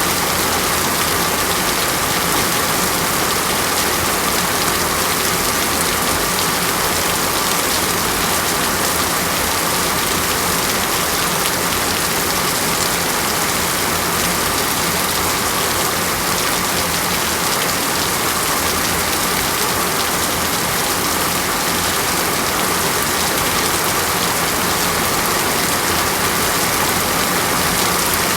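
Steady, heavy rain falling on a surface, a continuous even hiss without breaks.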